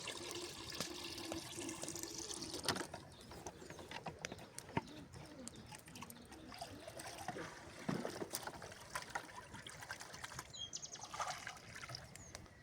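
Liquid trickling and splashing, with scattered small clicks and knocks.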